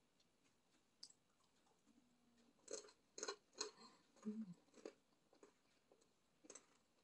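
A person chewing a mouthful of fried food close to the microphone. A handful of crisp crunches come between about three and five seconds in, and one more near the end.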